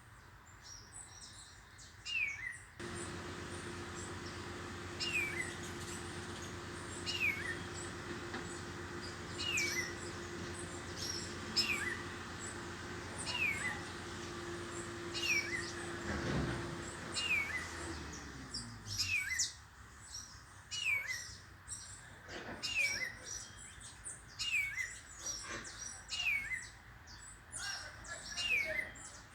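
A bird repeating a short, high, falling chirp, about every two seconds at first and quickening to about once a second in the second half. A steady low hum runs under it until just past the middle, then fades out.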